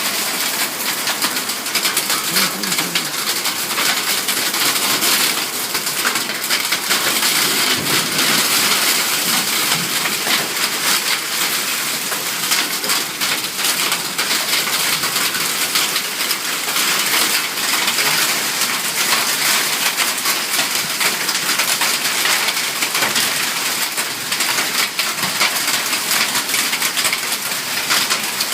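Hail and heavy rain pelting down: a dense, steady hiss crowded with sharp ticking impacts.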